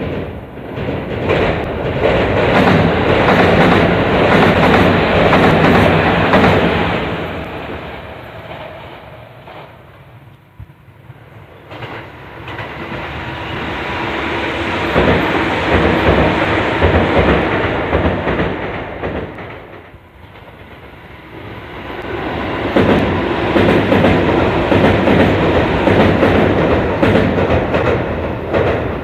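Electric train running on the rails, wheels clattering clickety-clack over the rail joints. The sound swells and fades three times.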